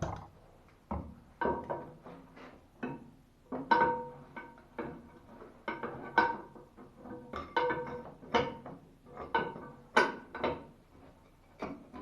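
Irregular clinks and knocks of metal on metal, roughly one or two a second, each with a brief ringing tone, as tools and fittings are worked on a plumbing valve.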